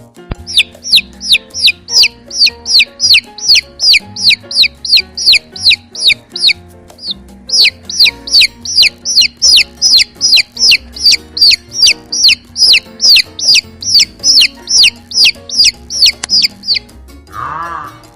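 A chick peeping: a long run of high, short cheeps that each fall in pitch, about three a second, with a brief break about a third of the way in. Soft background music plays underneath.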